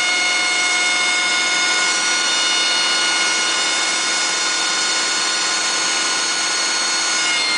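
Machine engine running under full load with a steady high-pitched whine of several tones over the running noise, a noise that appears only under load and that the owner takes for turbocharger noise. Near the end the whine drops slightly in pitch.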